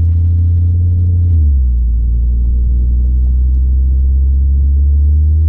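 Audi TT RS's 2.5-litre turbocharged five-cylinder engine pulling at low revs, a deep steady drone heard from inside the cabin. The pitch drops about a second and a half in, then holds.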